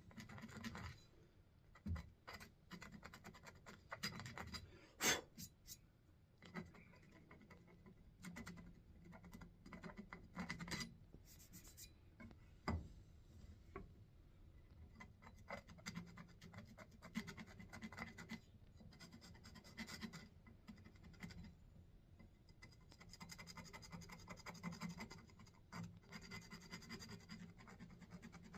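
Steel awl point scratching paint out of the stamped insignia on a steel axe head: quiet, irregular scraping strokes with an occasional sharper click or tap.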